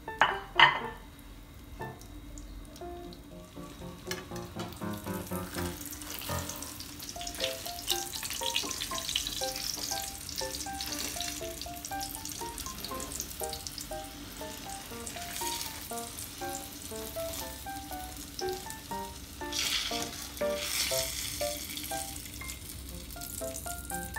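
Floured pieces of food sizzling and crackling in hot oil in a frying pan, the hiss swelling twice as they are worked with a wire skimmer and spatula. A brief sharp knock about a second in is the loudest moment.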